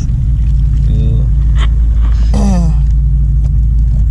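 Wind buffeting the microphone, a loud steady low rumble, with two short voice sounds from the angler, the second falling in pitch.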